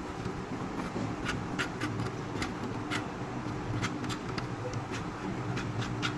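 Irregular light clicks and taps, about a dozen spread unevenly, over a steady low rumble.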